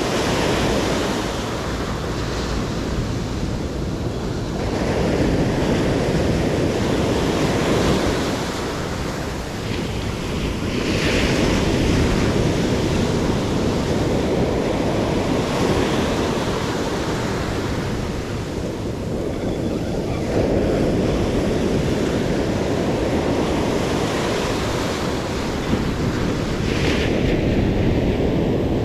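Sea surf breaking and washing up the beach, swelling every five seconds or so, with wind buffeting the microphone.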